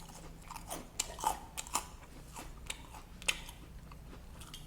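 Close eating sounds: mouth chewing and lip smacks from eating fried noodles, with irregular short sharp clicks and crunches.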